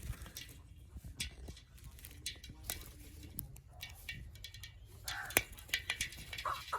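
A parrot bathing: irregular splashes and flicks of water, with short bird calls and chatter among them.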